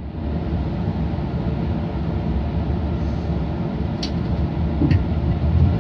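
Class 166 diesel multiple unit heard from inside the carriage as it pulls away: a steady low engine and running rumble that grows slightly louder. Two short sharp clicks come about four and five seconds in.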